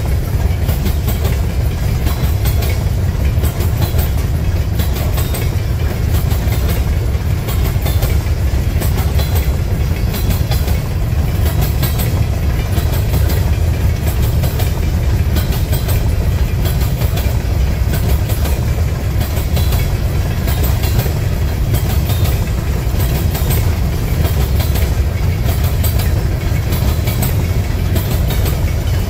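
Empty potash covered hopper cars of a long freight train rolling past: a steady deep rumble with the clickety-clack of steel wheels on the rails.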